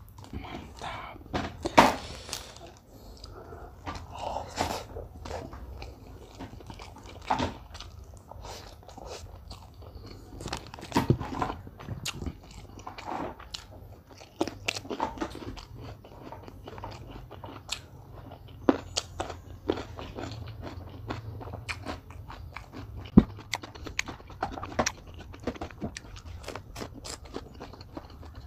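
Close-up eating sounds of a person chewing with his mouth: irregular crunches and wet mouth noises as he chews mouthfuls of rice and crisp fried milkfish.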